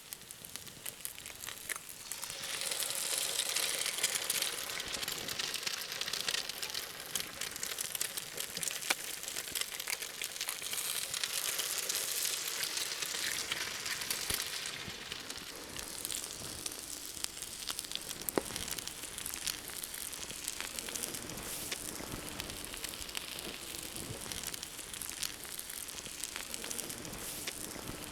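Food sizzling and frying over a campfire, a dense hiss full of small pops and crackles. It starts about two seconds in and eases off a little after the middle.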